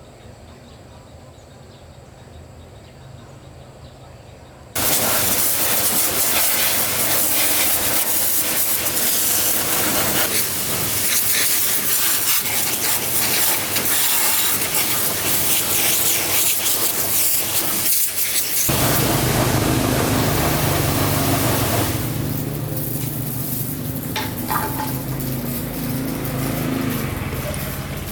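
A loud, steady hiss of a spray or air jet starts suddenly about five seconds in. From about nineteen seconds in, a low steady hum runs beneath it.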